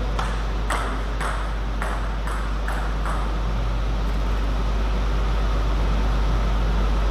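Table tennis ball clicking off bats and table in a quick rally, about seven hits roughly half a second apart over three seconds, then stopping. A steady low hum runs underneath.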